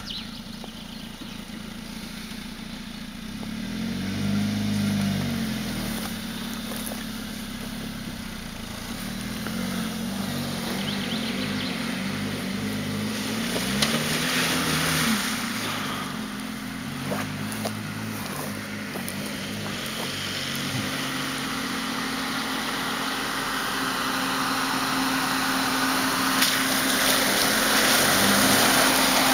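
Fiat Panda 4x4's engine running and revving up and down under load as the car drives off-road. It grows louder toward the end.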